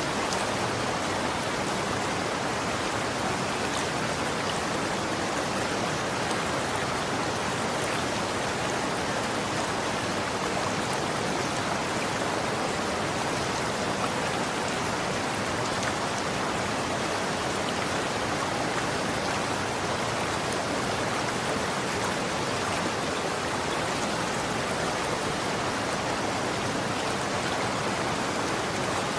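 Running water flowing steadily: an even, unbroken rushing hiss with no change in level.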